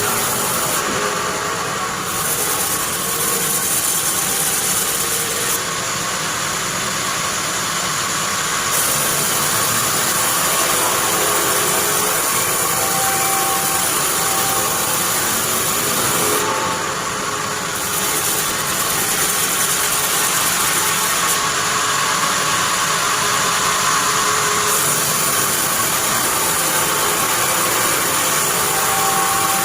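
Sawmill bandsaw machine running steadily: a loud, even machine noise with a faint steady hum, unbroken throughout.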